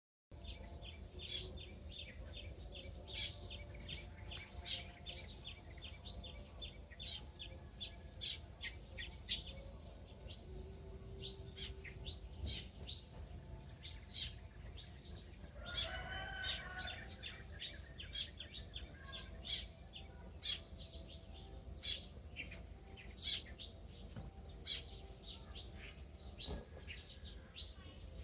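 Small birds chirping: many short, sharp, high chirps, often several a second, over a low steady background rumble. About halfway through comes one longer, wavering call.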